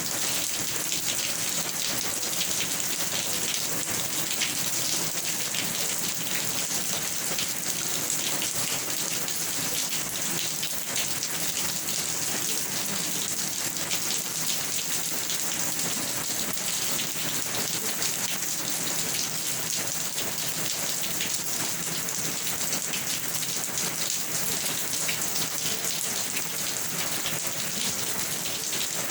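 Steady rain falling on a surface: an even hiss with a dense patter of individual drops, unchanging throughout.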